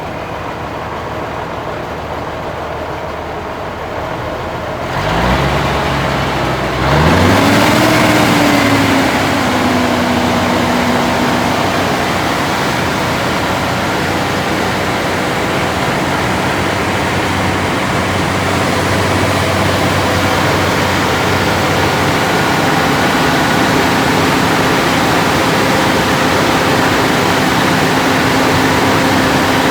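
Cummins 350 diesel engine of a 1980 International crane truck idling, then revving up about five to seven seconds in and held steady at a raised speed to build up air pressure.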